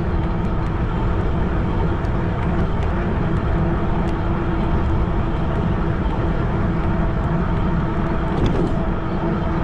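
A fat-tire e-bike riding steadily along a trail: wind rushing over the microphone with a steady rolling hum from the bike.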